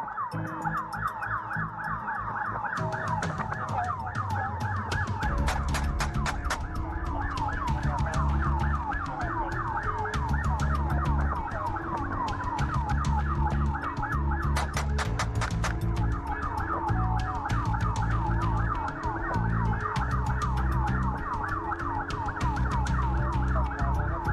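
A fast yelp-style siren sweeping up and down several times a second. Under it run a stepping bass line and a steady beat.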